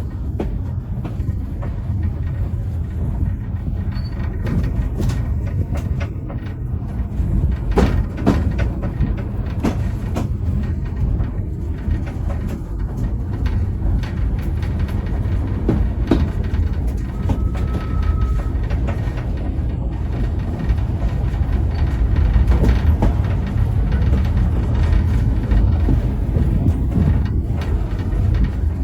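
Heritage steam train rolling along the track: a steady low rumble from the wheels on the rails, with scattered clicks and knocks.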